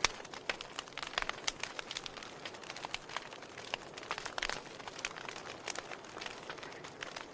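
Wood fire burning with a soft steady hiss and frequent irregular crackles and pops.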